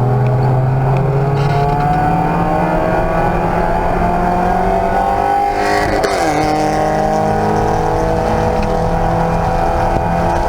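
Race car engine pulling hard under acceleration, its pitch climbing steadily. About six seconds in there is a quick upshift, the pitch dropping sharply before the engine pulls again.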